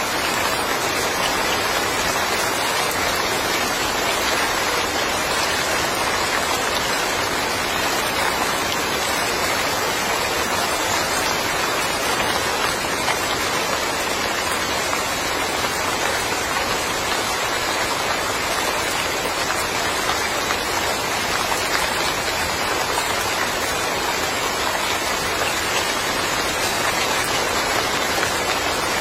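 Steady rain falling, a dense, even hiss of countless drops with no single drop standing out.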